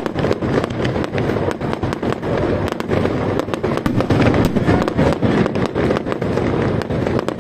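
Fireworks going off in quick succession: a dense run of sharp cracks and bangs over a steady low rumble, with no pause.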